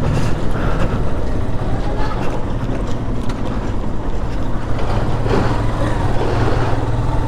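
Yamaha motorcycle engine running steadily while riding, with road and wind noise over it.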